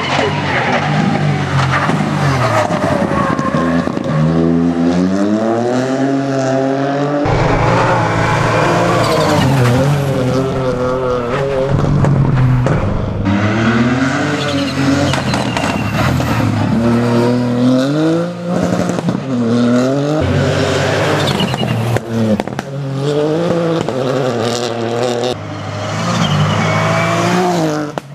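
Rally car engine at full stage pace, revving hard as it accelerates and dropping back at gear changes and lifts, over and over.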